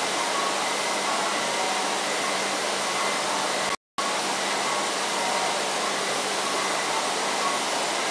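Steady whirring hum of a stationary W7 series Shinkansen's onboard equipment, with a faint steady whine over it. The sound cuts out for an instant just before four seconds in.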